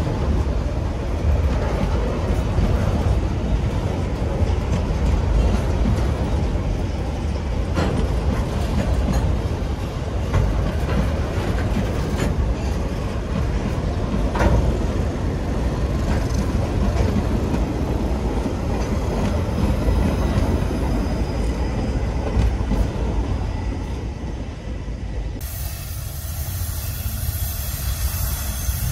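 Freight train's boxcars and hopper cars rolling past close by: a dense, steady rumble of steel wheels on rail, with a few sharp knocks. About three seconds before the end the rumble gives way abruptly to a quieter background with a high hiss.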